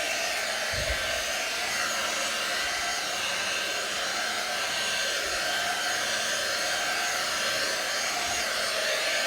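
Handheld 2-in-1 slicker brush pet hair dryer running steadily on a cool setting, a constant rush of blown air with a faint steady hum.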